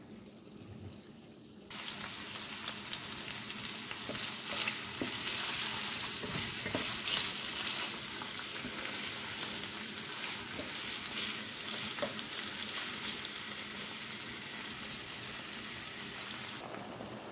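Sliced carrots, thyme and pimento sizzling in hot oil in an enamelled cast-iron skillet, a steady frying hiss dotted with small pops, stirred with a wooden spatula. The pan is faint at first, and the sizzle starts suddenly about two seconds in.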